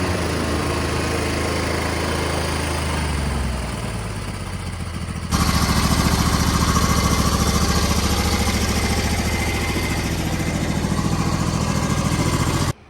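26 hp Briggs & Stratton V-twin of an MTD Gold garden tractor running steadily, with a fast even pulse. It gets suddenly louder about five seconds in and stops abruptly near the end.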